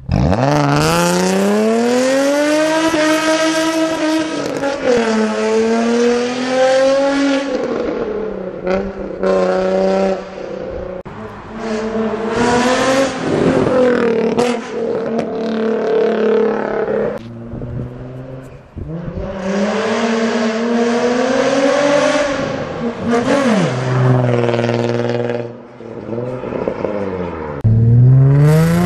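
Infiniti G35 Coupé's 3.5-litre V6 running through a full aftermarket performance exhaust with 63 mm pipes, revved repeatedly. The pitch climbs and falls in a series of rev runs, dropping briefly back toward idle between them.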